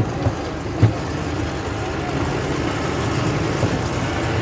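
A loaded truck running, a steady engine rumble with road noise, with a few brief knocks in the first second.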